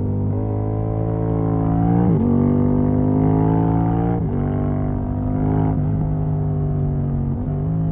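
Yamaha MT-07 689 cc parallel-twin engine running loud through an exhaust with the dB killer removed, rising in pitch under acceleration and breaking sharply four times as the quickshifter changes gear.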